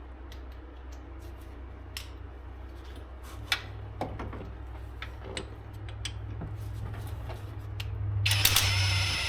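Light metallic clicks and taps of tools and bolts being handled during a wheel hub bearing installation, over a steady low hum. About eight seconds in, a loud, dense mechanical noise starts, as a tool begins running a hub bolt in.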